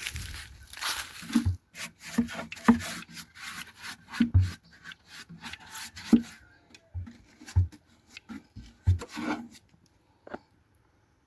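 Beeswax bait being rubbed onto the inside of a wooden beehive box. Irregular scraping and rubbing strokes with a few dull knocks, busy for about six seconds, then sparser and dying away near the end.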